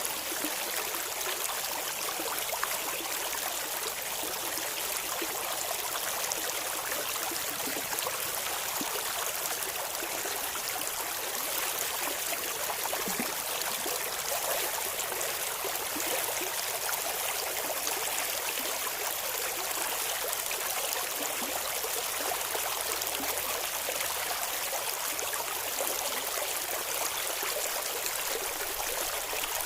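Clear river or stream water flowing and babbling over rocks, a steady rushing with small splashes and trickles.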